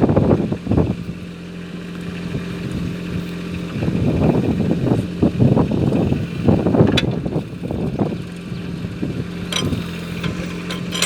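Mini tractor backhoe's engine running at a steady speed, with louder, rougher spells about a second in and again between about four and eight seconds in.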